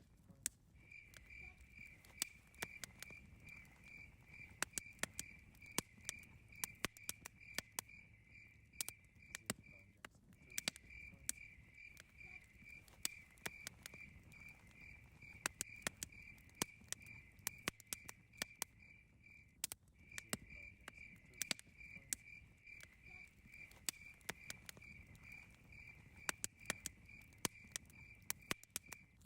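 Campfire crackling with frequent sharp pops, under a cricket chirping steadily at about three chirps a second. The chirping breaks off briefly twice.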